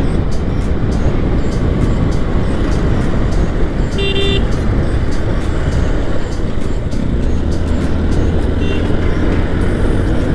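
Wind and road noise of a two-wheeler riding at speed, recorded on a helmet camera, with a short horn toot about four seconds in and a fainter one near nine seconds.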